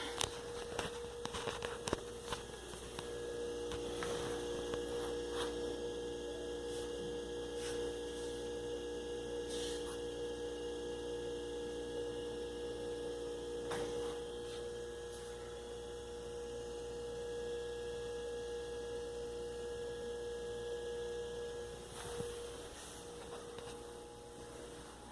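Brastemp BRE 49B refrigerator running: a few clicks at the start, then a steady electrical hum that fades near the end.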